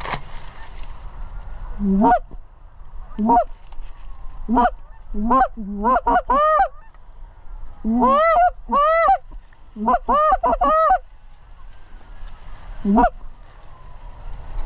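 Canada goose honks: about a dozen loud two-note 'her-onk' calls, each breaking from a low note up to a higher one. They come singly, in pairs and in threes, with short pauses between the groups.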